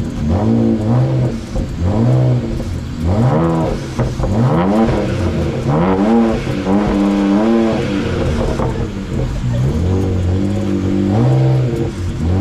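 BMW 335i's turbocharged straight-six being free-revved through a muffler-delete exhaust with 4-inch tips: repeated blips that rise and fall in pitch, with one longer, higher rev held around the middle.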